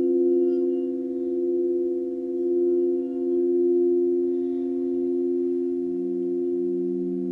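Sustained, layered pure tones of a sleep-frequency sound-healing track, swelling and fading slowly. A lower tone joins about five seconds in.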